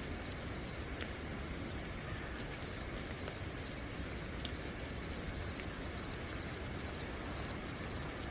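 Steady night rain with crickets trilling continuously at a high, even pitch; scattered sharp drops tick now and then.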